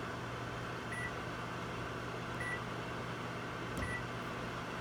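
Microwave oven keypad beeping three times, about a second and a half apart, as the beverage setting is changed, over the steady low hum of the running microwave.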